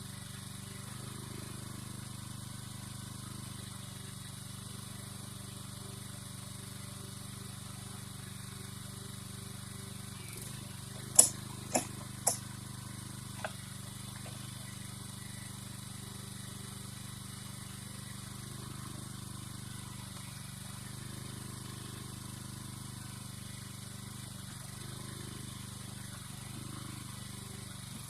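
An engine running steadily, with four sharp knocks near the middle, the first the loudest.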